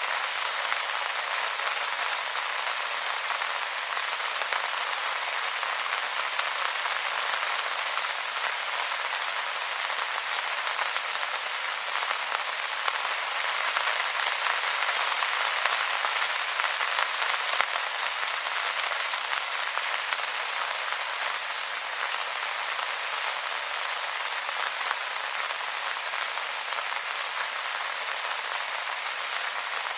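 Steady rain falling on wet leaves: a dense, even sound of many small drops, with little low rumble and no break.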